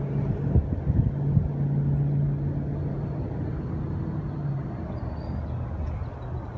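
Steady low mechanical hum over a rumble, which fades about four and a half seconds in. This fits the old Supreme Aire HVAC unit running.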